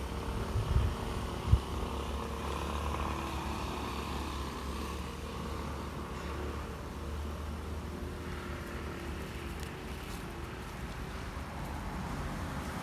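Steady low engine rumble of motor traffic, with two dull thumps within the first two seconds.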